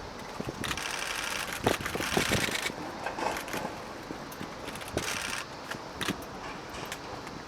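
Camera shutter firing in rapid bursts, three runs of fast clicking. Scattered knocks of the camera being handled come between them.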